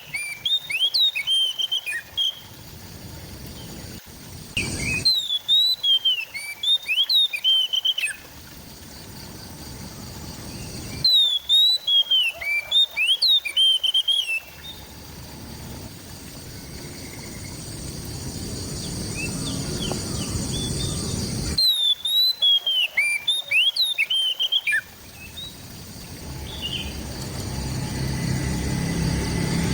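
Oriental magpie-robin (kacer) singing in bursts of a few seconds of rapid, sweeping whistled notes, repeated four times. Between the bursts a background hiss grows gradually louder.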